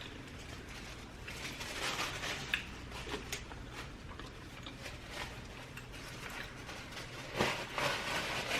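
Close-miked eating sounds: chewing and mouth noises in short irregular bursts, with a sharp click about two and a half seconds in.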